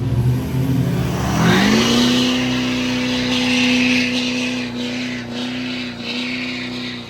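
A vehicle engine revs up over about a second and is held steady at high revs, with a loud hissing noise over it. It drops off sharply at the very end.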